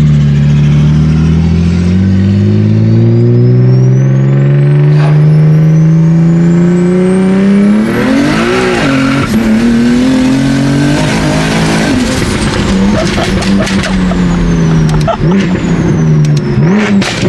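Single-turbo-converted BMW M3 CS's 3.0-litre inline-six pulling at full throttle on about 28 psi of boost, with a high turbo whistle rising above the climbing engine note. There is a brief break in the engine note about eight seconds in, then the revs climb again. Around twelve seconds in the whistle cuts off and the revs fall, followed by a string of sharp pops.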